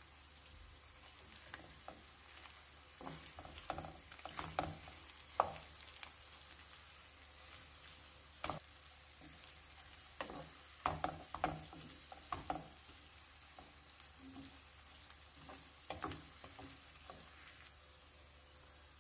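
Beef cubes and onions frying in a nonstick pot while a wooden spatula stirs in tomato paste, scraping and knocking against the pan. The stirring comes in several spells over a faint steady sizzle.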